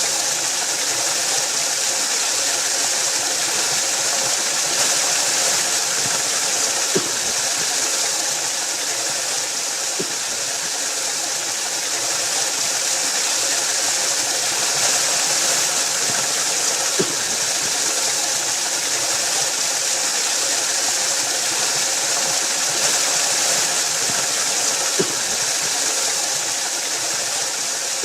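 Waterfall: a steady rush of falling water, mostly hiss, with a few faint ticks.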